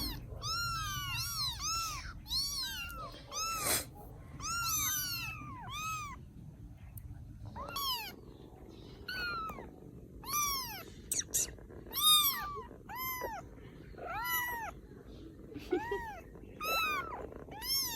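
Rescued baby kittens mewing over and over: short, high, thin cries that rise and fall in pitch, about one a second, some overlapping.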